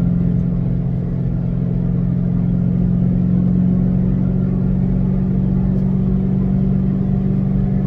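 2006 Ford Mustang GT's 4.6-litre V8, heard from inside the cabin, running at steady revs with a low drone and road noise. The pitch and loudness stay even throughout.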